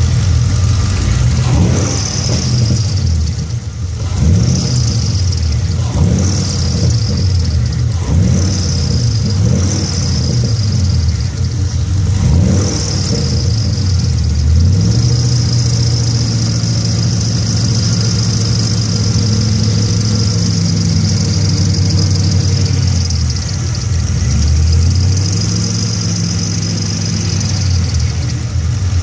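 Car engine running and being revved now and then, with a high-pitched belt squeal that comes and goes in short bursts at first and then holds steady for long stretches: the sign of a bad, slipping drive belt.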